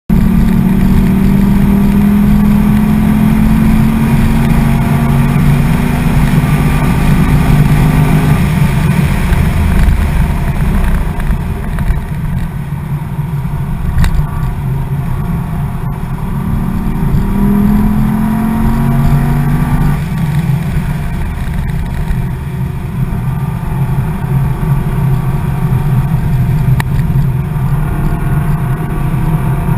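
2009 Corvette Z06's 7.0-litre LS7 V8 heard from inside the cabin at speed. It rises in pitch under acceleration for the first eight seconds or so, then drops off. Around the middle it pulls up again for a few seconds over steady road and tyre noise.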